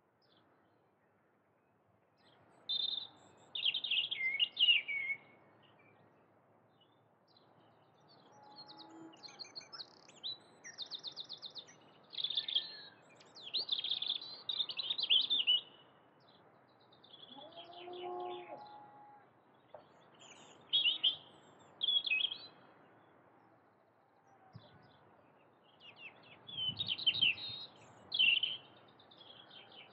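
Songbirds singing in short bursts of chirps and trills with brief pauses between, over faint background noise. The song starts a couple of seconds in.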